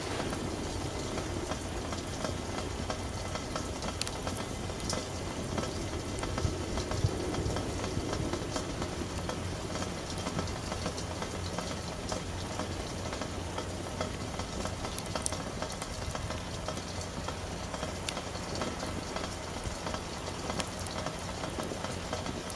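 Campfire burning: a steady rush of flames with scattered crackles and pops from the burning wood.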